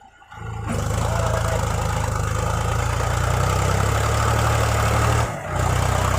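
Heavy diesel engine running steadily at an even speed. It comes in suddenly about a third of a second in and drops out briefly near the end.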